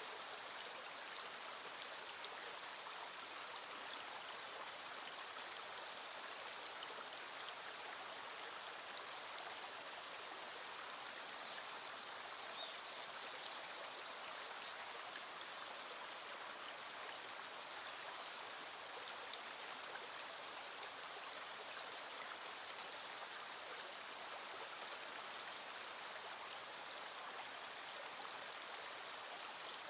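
A small stream flowing steadily over stones, an even, unbroken rush of water.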